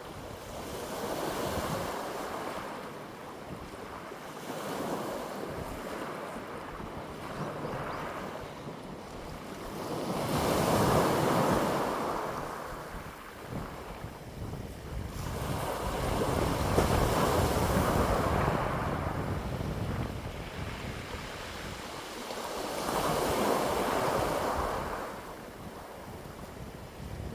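Wind blowing in gusts that swell and die away every several seconds, with some wind buffeting on the microphone.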